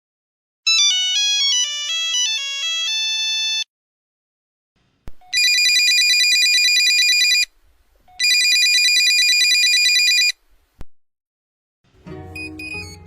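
Phone ringtones: a short electronic melody of quick stepping notes, then two long trilling electronic rings of about two seconds each with a short pause between them.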